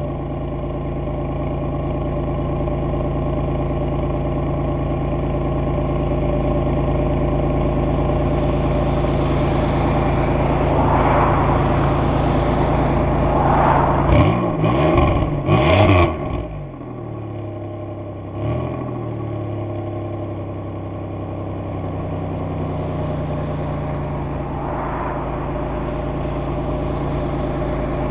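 A 1997 Pontiac Grand Prix GT's swapped-in L67 supercharged 3800 V6 idling through a custom exhaust with a cat delete and a 42-inch glasspack. About halfway through it gets a quick series of three throttle blips, then settles back to idle with one more short blip.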